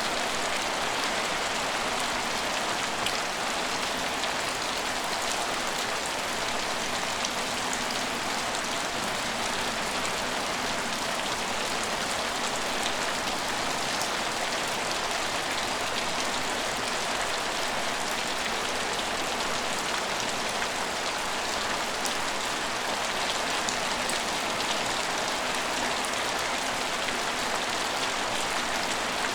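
Steady rain falling on a train station, with scattered sharper drips among an even hiss.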